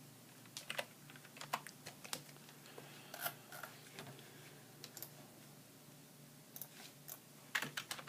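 Faint, irregular light clicks and taps, a dozen or so spread unevenly over several seconds, with a cluster near the end, over a low steady hum.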